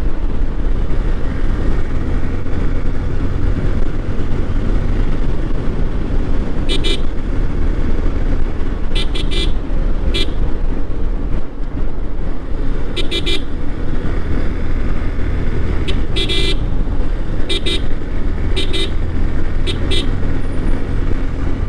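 Yamaha Fazer motorcycle riding at highway speed with a steady low rumble, cut by short horn beeps, single and in quick pairs, about ten times from about seven seconds in.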